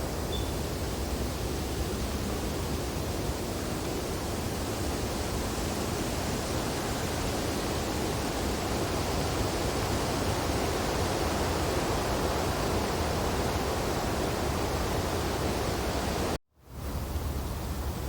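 Wind blowing through snowy tree branches, a steady rushing noise that swells a little toward the middle. Near the end it cuts out abruptly for a split second, then resumes.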